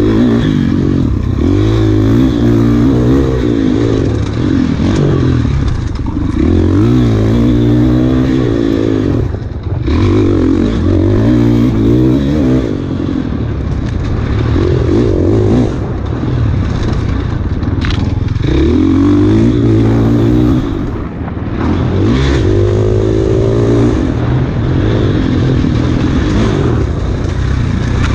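Enduro dirt bike engine under hard riding, the revs climbing and falling again and again as the throttle is worked and gears change. The throttle briefly shuts off a few times, with rattling and scraping from the bike over rough trail.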